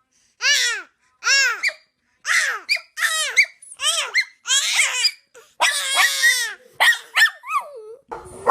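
A baby squealing with laughter: a string of about a dozen short, high-pitched shrieks in quick succession, each rising and falling in pitch.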